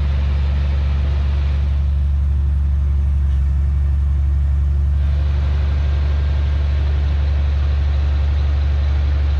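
Heavy diesel engine of an earthmoving machine running steadily with a deep, even drone. The lighter clatter above the drone eases for a few seconds about two seconds in.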